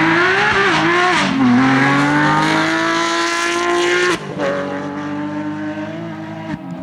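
Porsche 911 GT3 rally car's flat-six engine at high revs, its pitch climbing under hard acceleration. About four seconds in the note drops suddenly and it runs on at a lower, quieter pitch.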